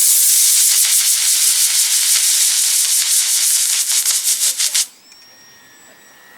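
Model rocket motor firing: a loud, steady, high-pitched hiss that starts suddenly, turns rougher and crackly near the end, and cuts off about five seconds in.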